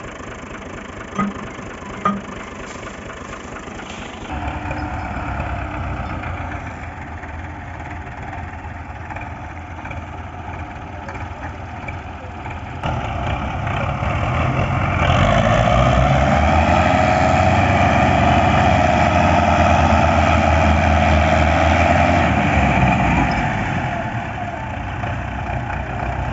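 Tractor diesel engine running while hauling a heavily loaded trolley, louder from about four seconds in, then building up around thirteen seconds in and staying loud for several seconds before easing off near the end. Two short clicks early on.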